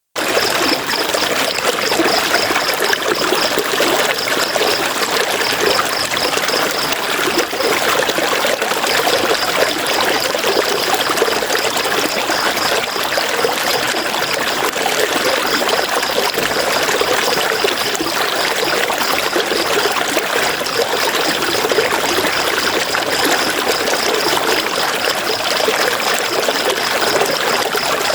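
River water flowing and trickling over stones in a steady, unbroken rush. A high, rapidly pulsing chirr comes and goes over it.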